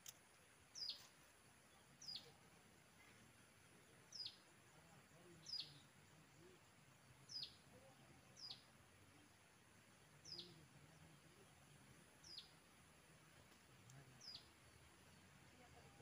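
A bird's short, high call, a quick downward-sweeping note, repeated about ten times at irregular intervals of one to two seconds, over faint outdoor hiss.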